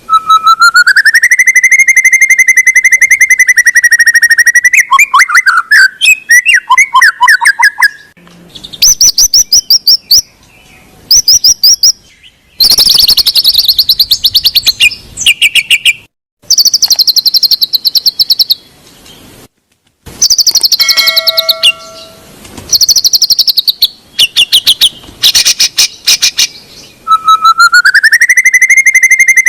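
White-rumped shama (murai batu) singing loudly: a varied song of rapid trills and whistled phrases, broken by short pauses.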